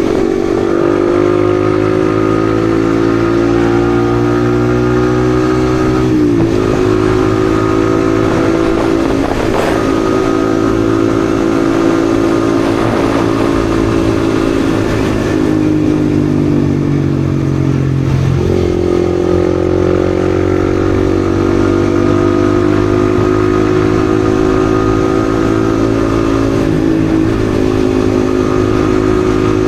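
Yamaha XSR155's single-cylinder 155 cc engine running under way. Its note sinks slowly, then jumps back up sharply three times, about six, eighteen and twenty-seven seconds in, over steady wind and road noise.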